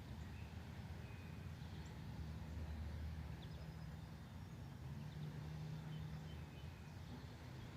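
Faint, scattered songbird chirps over a low, steady hum.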